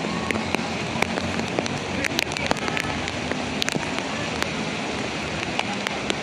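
Heavy rain falling steadily, with many sharp drops ticking on a nearby surface.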